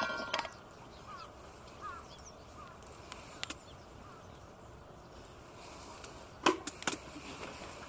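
A few sharp knocks and clinks of camping gear being handled: one at the start, one midway and two close together near the end, with faint bird chirps in between.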